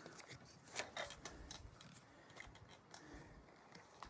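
Faint handling noise of a phone being set onto a tripod: a few scattered light clicks and knocks, otherwise near silence.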